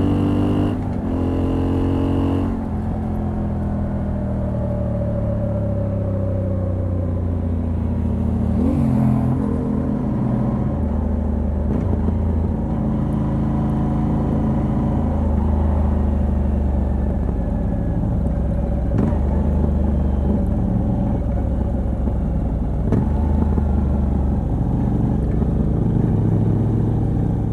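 Moto Guzzi V85TT's air-cooled V-twin running through the stock exhaust with a Mistral decat, its revs dropping over the first couple of seconds and then holding low and fairly steady with small rises and dips.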